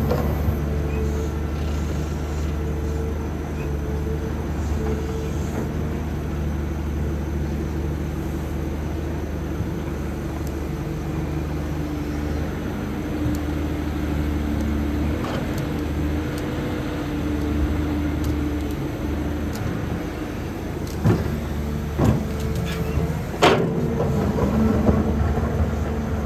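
Caterpillar 320D excavator's Cat ACERT diesel engine running steadily, with a few sharp knocks near the end.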